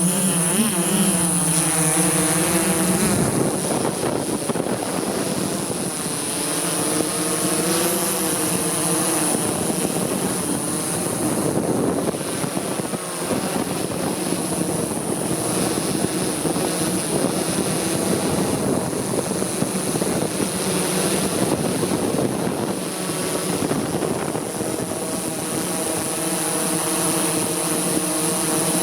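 Multicopter drone's propellers and motors whining in flight, the pitch rising and falling as it manoeuvres, with a steady high whistle above it.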